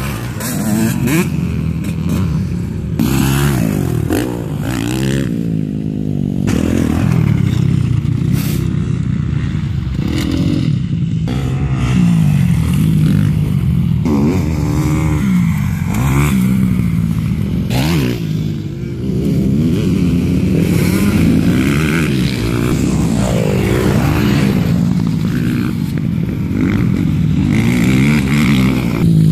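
Motocross bike engines revving up and down over and over, the pitch rising and falling with each throttle opening and gear change.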